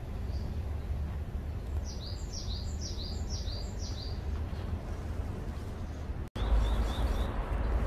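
A small bird chirping a quick run of about six short notes, each falling in pitch, over a steady low outdoor rumble. After a brief dropout near the end the rumble is louder and a few fainter chirps follow.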